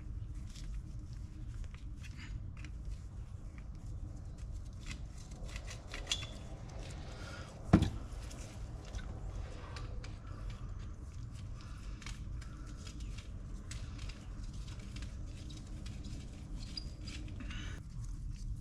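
Hand work with tools and metal parts: scattered light clicks and taps, with one sharp clank about eight seconds in, over a steady low hum.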